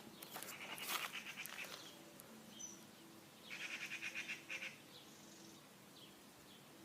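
Faint bird chirping: two runs of quick high chirps, one about a second in and a louder one about three and a half seconds in.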